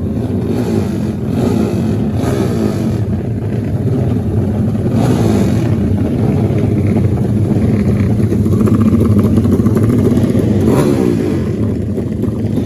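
Racing motorcycle engines running and revving, the engine pitch rising and falling repeatedly.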